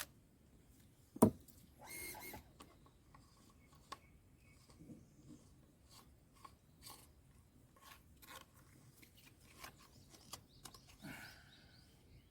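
Scattered small clicks and scrapes from handling water-tank filter parts during cleaning, with one sharp knock about a second in and short scraping bursts near the start and near the end.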